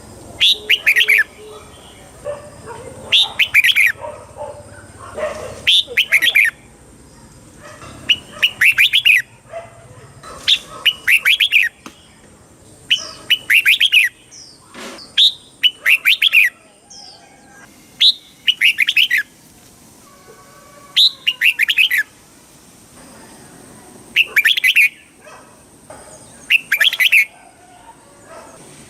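Red-whiskered bulbul singing: short, bright, quickly warbled phrases repeated about every two to three seconds.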